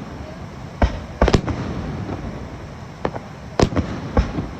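Aerial fireworks bursting overhead: a series of sharp bangs, two in quick succession about a second in and several more near the end.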